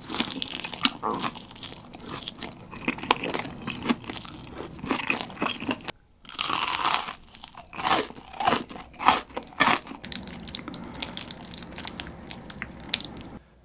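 Close-miked eating sounds: bites and chewing of pizza with many small crackly crunches, then, about six seconds in, a loud crunchy bite into fried boneless chicken followed by more chewing.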